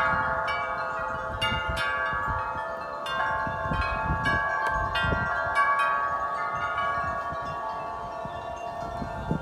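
Wind chimes ringing in strong wind, struck over and over so that their tones overlap and ring on continuously, with a low rumble of wind underneath.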